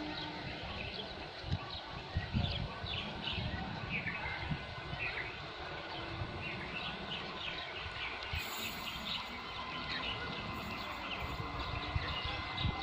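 Small birds chirping repeatedly, short high calls scattered throughout, over a steady low rumble.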